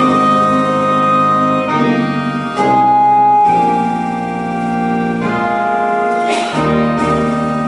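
Slow organ music of held chords that change every second or two, played for a moment of silent tribute.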